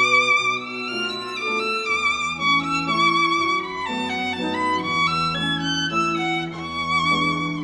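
Music score of a violin playing a melody with vibrato over lower sustained accompaniment.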